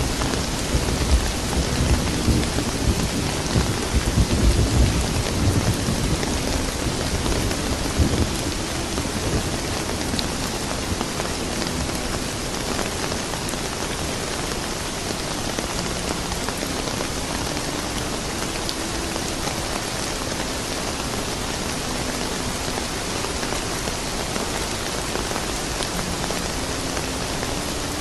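Steady rain, with a low rolling rumble of thunder that fades out about eight seconds in.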